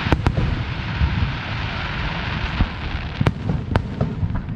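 Fireworks going off: sharp bangs, two close together near the start and two more about three seconds in, over continuous crackling and a low rumble of distant bursts.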